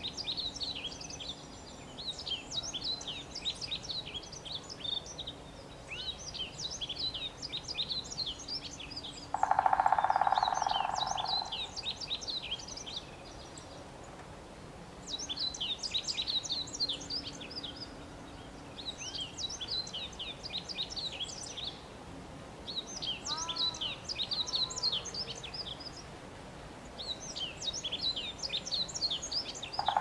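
Songbird singing in repeated phrases of quick, high chirps, each phrase about two seconds long with short pauses between. A loud held tone of a few notes cuts in for about two seconds about ten seconds in, and again near the end.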